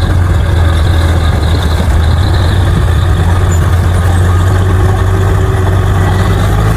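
Bulldozer's diesel engine running steadily, a loud, even, deep drone with no change in pitch.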